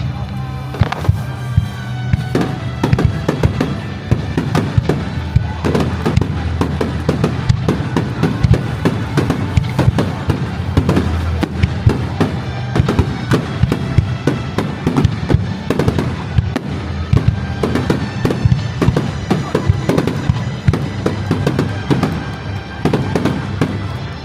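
A fireworks display with dense, rapid bangs and crackling from many shells bursting one after another. Music plays underneath.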